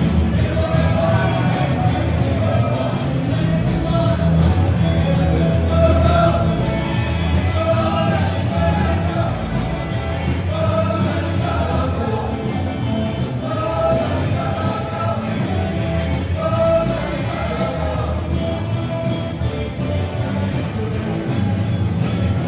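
Band music with a sung vocal line over a steady, evenly repeating drum beat.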